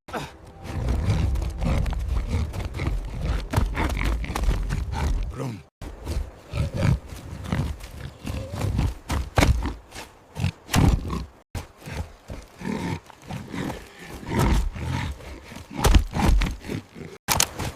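Wild boars grunting and roaring in irregular bursts. A heavy low rumble fills the first six seconds, and the sound cuts off abruptly about six and eleven seconds in.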